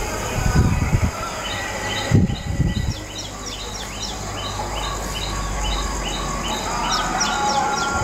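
Small birds chirping in a rapid series of short, high notes, several a second, starting about a second and a half in and running on to near the end, over a steady faint high whine. A few low thumps, such as wind or handling on the microphone, come in the first three seconds.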